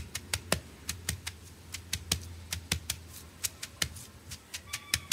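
Pestle pounding shredded green papaya in a mortar for som tam: quick, sharp knocks about four times a second, kept fast so the papaya stays crisp.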